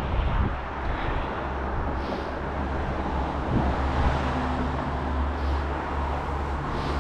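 Steady outdoor road noise: a low rumble under a hiss, with traffic and wind on the microphone.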